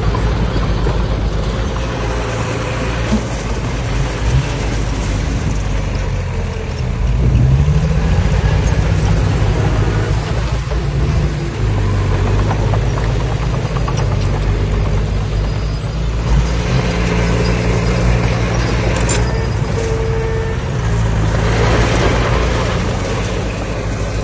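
Diesel engine of heavy earthmoving machinery running steadily, rising in pitch about seven seconds in as it revs up under load, then holding there.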